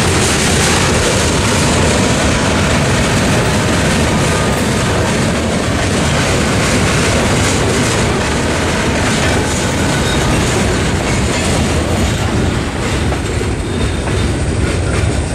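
Freight train boxcars rolling past, their steel wheels running on the rails in a steady noise. The noise eases a little near the end as the last car goes by.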